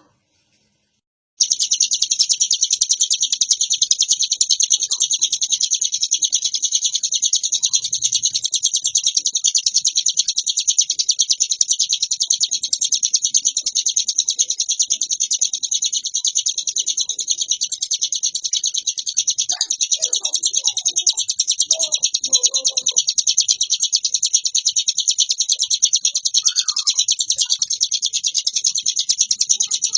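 Ciblek gunung (a prinia) singing a continuous, very fast, high-pitched chattering song without pause. It starts about a second and a half in, after a moment of silence.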